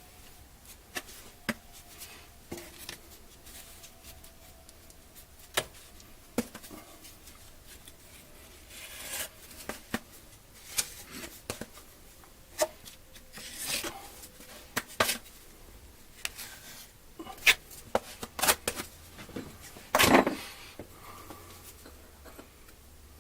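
Scattered clicks, taps and short scraping sounds of hand work, irregular and unrhythmic, with a louder knock and scrape about twenty seconds in.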